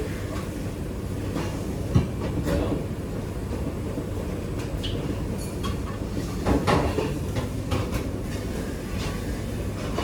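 Restaurant kitchen noise: a steady low rumble with scattered clatter and knocks of utensils and cookware, the loudest knock about two seconds in.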